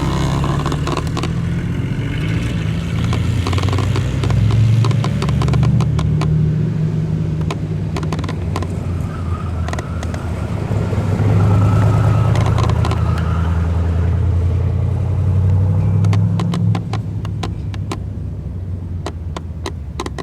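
A large car engine running loudly, its note swelling and easing with the throttle, then dropping back about three-quarters of the way through. Scattered sharp clicks sound over it.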